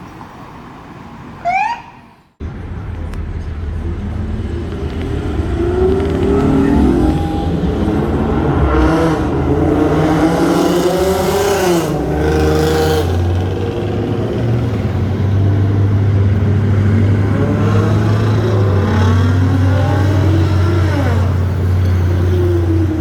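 Loud vehicle engine running close by in street traffic, its pitch rising and falling as it revs over a steady low drone, with a louder rush of noise from about nine to thirteen seconds in. Before that, a short rising chirp and then an abrupt cut about two seconds in.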